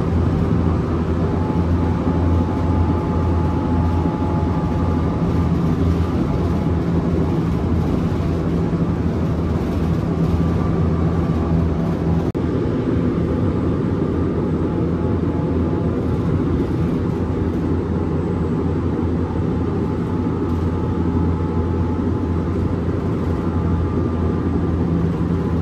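Interior running noise of a Korail electric commuter train at speed: a steady, loud rumble of wheels on the track with a constant low hum. The hum shifts slightly about halfway through.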